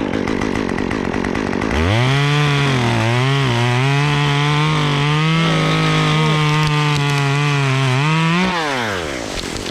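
Two-stroke chainsaw idling, then throttled up about two seconds in and held at high revs through a cut, dipping briefly under load. It is released back toward idle near the end.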